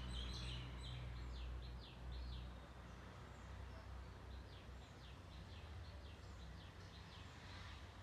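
Small bird chirping: a run of short, high, downward-slurred notes, two or three a second, over a low steady rumble that is louder in the first two seconds.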